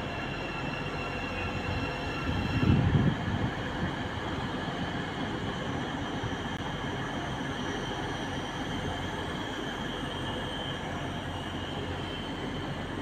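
Electric passenger trains moving at the station platforms: a steady rail rumble and hum with a thin high whine, swelling briefly into a louder rumble about three seconds in.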